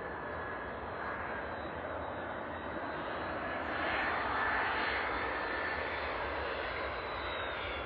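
Turbofan engines of a landing United Airlines Boeing 767-300ER twinjet, a steady rumble and hiss that swells a little midway, with a thin whine that falls in pitch near the end as the jet passes.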